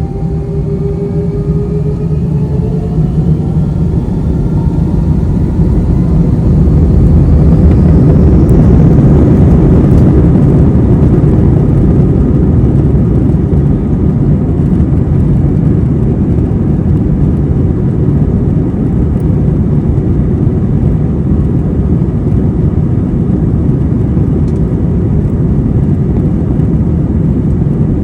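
Airbus A321's jet engines spooling up to takeoff thrust, heard from inside the cabin. A rising whine sits over a deep roar that grows louder over the first eight seconds or so, then the engines hold a steady loud roar through the takeoff run.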